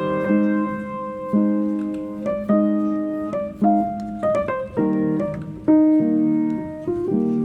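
Background piano music: single notes and chords struck and left to ring, a slow melody.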